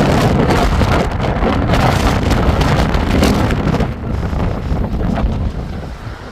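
Strong storm wind buffeting the microphone in a loud, rough rush. It eases somewhat about four seconds in.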